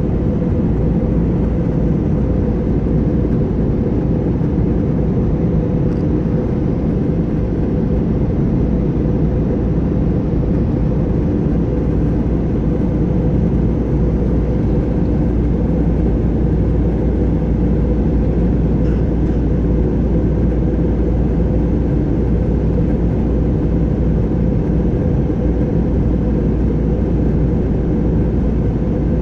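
Jet airliner cabin noise in flight: a steady, unchanging rumble of engines and airflow, heaviest in the low range.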